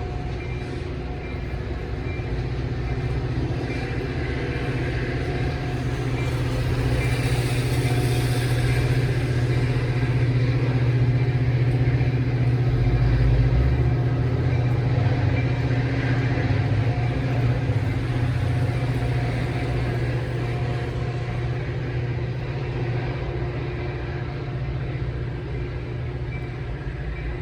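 A diesel-hauled train passing close by: a steady low engine rumble with a hum of steady tones, swelling to its loudest about halfway through and easing off again.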